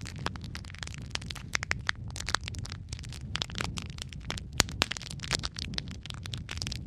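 Wood fire burning in a fireplace: a steady low rumble of flames under dense, irregular crackles and pops of the burning logs, one sharp pop standing out about halfway through.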